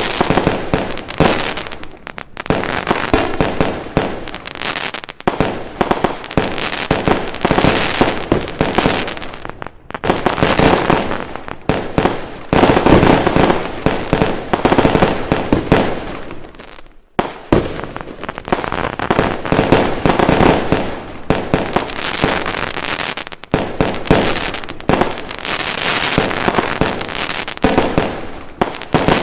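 Fireworks going off in a dense, continuous barrage of rapid bangs and crackles. There are brief lulls about ten and seventeen seconds in.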